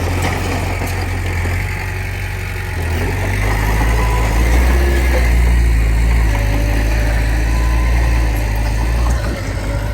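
Diesel engine of heavy earthmoving machinery running steadily. It grows louder and deeper about three seconds in, then eases back just before the end.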